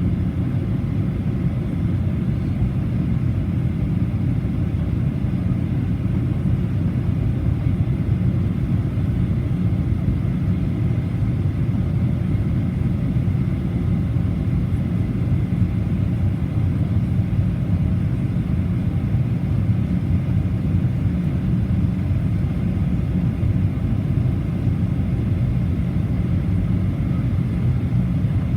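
Steady low cabin rumble of a Boeing 737-800 heard from a passenger seat: the CFM56-7B engines and airflow, running evenly without change.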